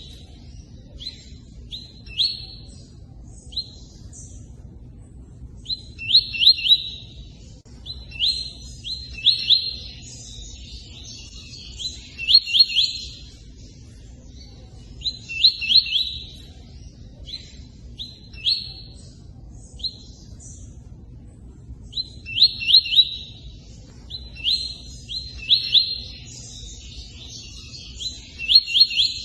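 A tui-tui bird calling in short bursts of a few sharp, quickly falling high chirps, repeated every one to three seconds, over the steady rush of running water.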